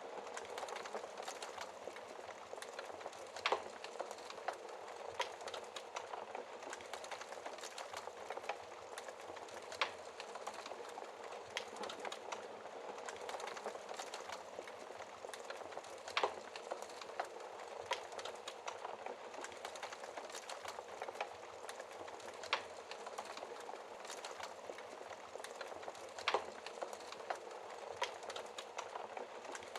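Wood fire burning in a fireplace behind a glass door: a steady hiss with frequent small crackles and a louder sharp pop every few seconds.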